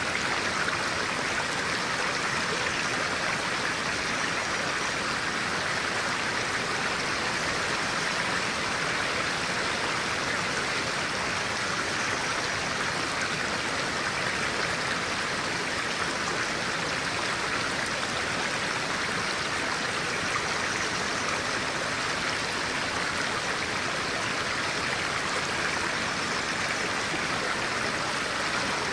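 Clear-water stream running steadily, an even rushing of water with no change in level.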